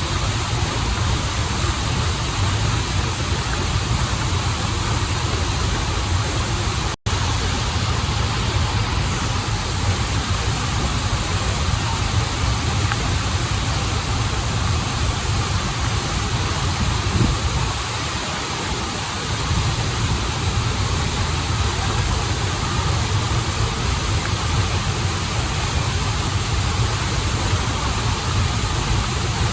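Steady rushing of a waterfall and flowing stream, a constant noise with a deep rumble underneath. A brief dropout to silence comes about seven seconds in.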